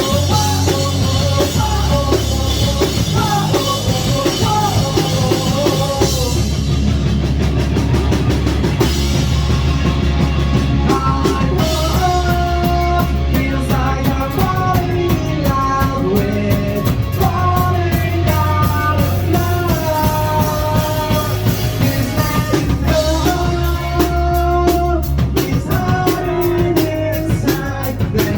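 Live rock band playing a song loudly: drum kit and guitars, with singing.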